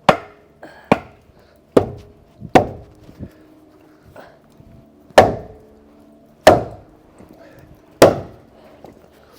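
Seven sharp, hard knocks with a short ringing after each. The first four come about a second apart, then there is a longer gap before three more about a second and a half apart.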